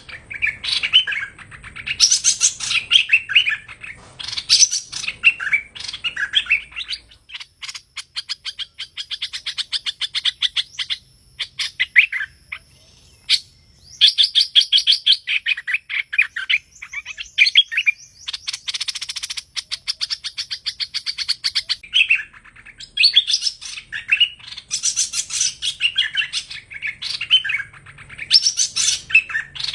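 Song of the songbird that Vietnamese bird-keepers call hoành hoạch thơm: loud, varied whistled phrases, breaking in the middle into long runs of fast, rapidly repeated trilling notes.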